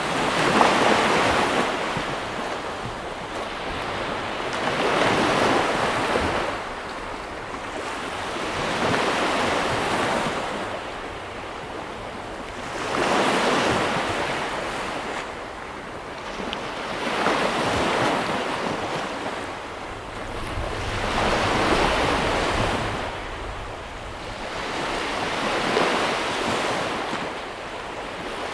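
Sea waves breaking, a rushing wash that swells and ebbs about every four seconds.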